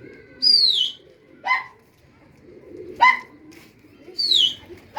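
Birds calling: clear high calls that fall in pitch, twice, alternating with three shorter, lower calls that rise sharply.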